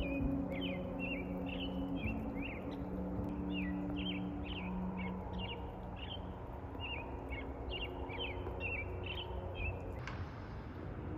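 Small birds chirping: short repeated calls, about two a second, which stop near the end, over a low steady drone that fades about halfway through.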